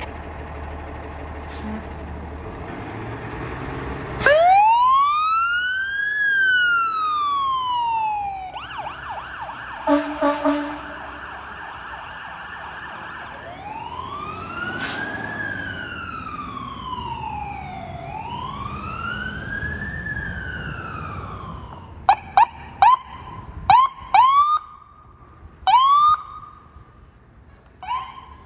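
Fire apparatus electronic siren: a truck engine rumbles for the first few seconds, then the siren wails in slow rises and falls. Partway through comes a held steady tone with two short air-horn blasts, and near the end the siren switches to a run of quick, sharp rising whoops.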